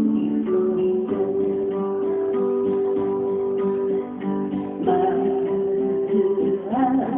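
Acoustic guitar strummed and picked, playing a song, with a melody note held for about three seconds early in the passage.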